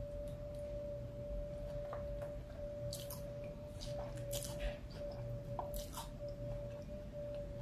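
Close chewing and wet mouth sounds from eating a soft taco, with scattered short clicks and crackles as the bite is chewed. A steady, faint whine-like tone runs underneath.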